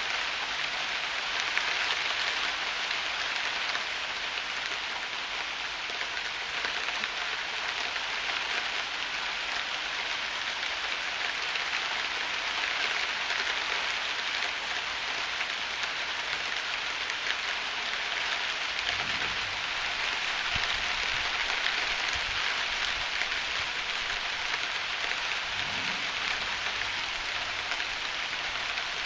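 Heavy rain falling steadily, a dense even hiss of drops on surfaces, with faint low rumbles about two-thirds of the way through and again near the end.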